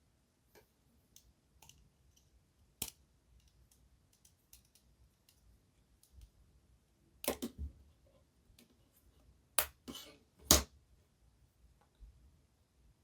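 Light clicks and taps of tiny T-gauge model railway parts being handled and fitted together on a tabletop: scattered faint ticks, a short cluster a little past halfway, then three sharper clicks in quick succession.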